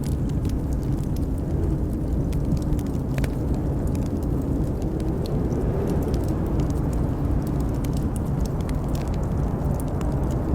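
Wood fire crackling with scattered sharp pops over a steady low rush of blizzard wind.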